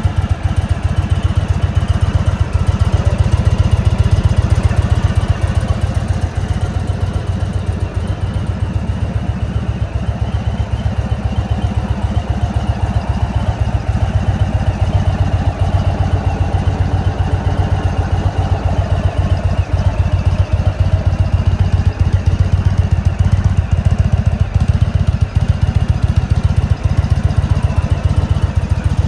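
2026 Indian Chief Vintage's 116 cubic inch air-cooled Thunderstroke V-twin idling steadily, a low, even run of firing pulses.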